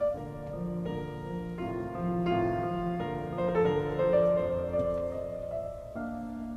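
Background music: piano playing slow, sustained chords.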